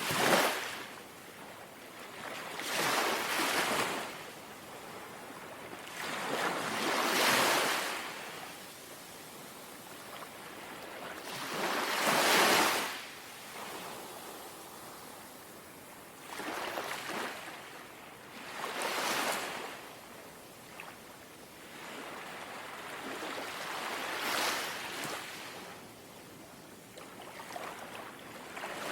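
Small, gentle sea waves lapping, a soft wash that swells and fades about eight times at uneven intervals of a few seconds.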